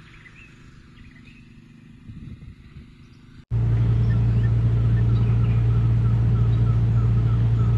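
Faint bird chirps in quiet surroundings. About halfway through, a loud, steady low machine hum starts abruptly, with a bird chirping repeatedly over it.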